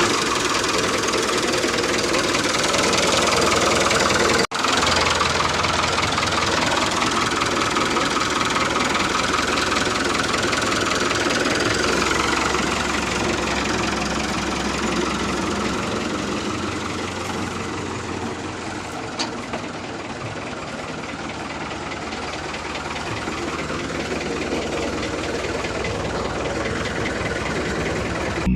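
A small motor running steadily, cutting out for an instant about four and a half seconds in.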